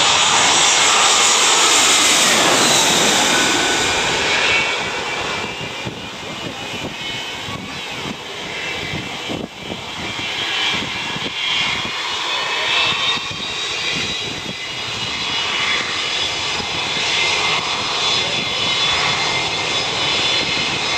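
Jet airliner passing low overhead. Its engine roar is loudest in the first few seconds, with a whine that drops in pitch as it passes, then the roar eases to a lower level with a steady high whine.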